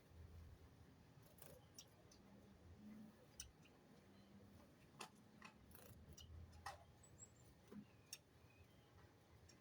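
Faint, irregular sharp clicks and ticks, about eight of them scattered over several seconds, with a brief faint high bird chirp about seven seconds in, over a low steady hum.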